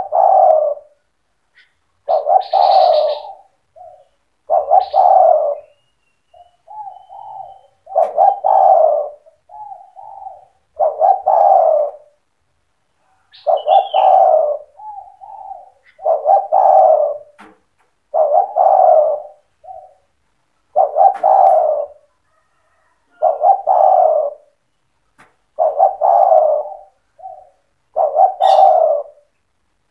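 Spotted dove cooing over and over, a loud coo phrase about every two seconds with short softer notes between the phrases.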